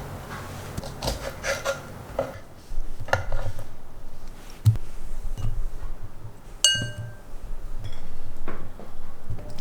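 Glassware and dishes clinking and knocking on a kitchen work surface, with one clear ringing glass clink about seven seconds in.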